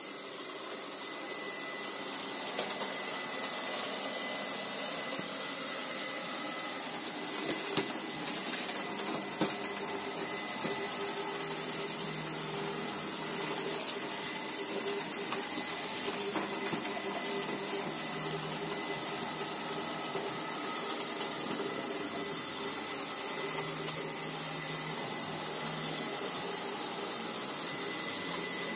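iLife V5s Pro robot vacuum cleaner running steadily, a whirring motor hum with a thin high whine over it. A few light knocks come between about two and nine seconds in.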